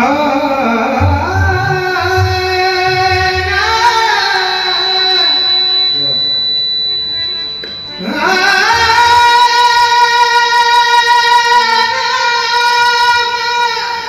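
A male devotional singer sings in a very high, full voice; about eight seconds in his voice slides up into a long, high held note. Deep pakhawaj drum strokes sound underneath during the first few seconds.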